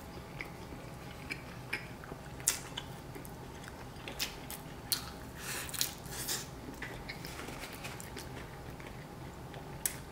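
Close-up chewing of soft steamed rice rolls (bánh cuốn): wet mouth smacks and small clicks scattered throughout, busiest around the middle when another mouthful goes in.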